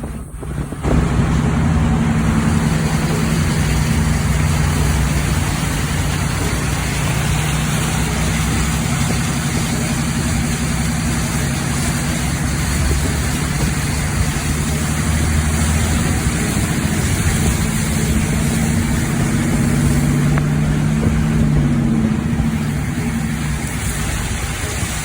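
Motor vehicle engine running steadily under a constant rushing noise, the whole sound growing louder about a second in.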